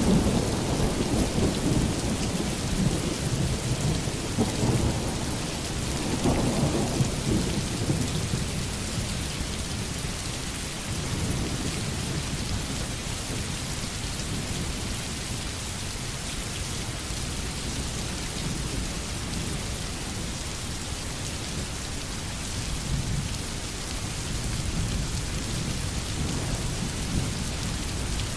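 Steady heavy rain in a thunderstorm, with a long roll of thunder rumbling through the first several seconds and building again near the end.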